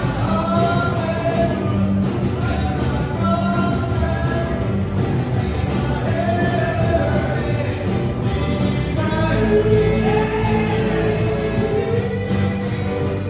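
Rock band playing live with a lead singer over drums, bass and guitar, with a steady beat.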